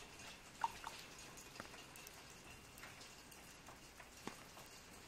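Rain on an umbrella: scattered single drops ticking irregularly on the canopy over a faint, steady rain hiss.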